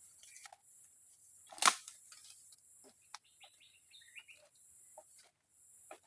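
Forest ambience with a steady high insect drone and scattered knocks and clicks, one sharp, much louder knock about a second and a half in. A few short bird chirps come in the middle.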